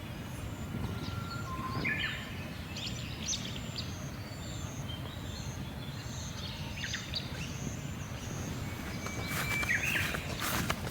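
Birds chirping and trilling now and then over a steady low outdoor rumble, with a faint high note repeating evenly in the background. About ten seconds in, a run of crunching footsteps begins.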